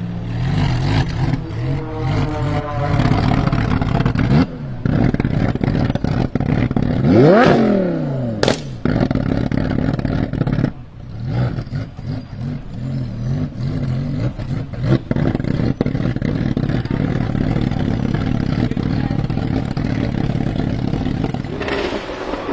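Engine of a widebody Lamborghini Huracan drift car revving and running hard. About seven seconds in, its pitch sweeps sharply up and back down.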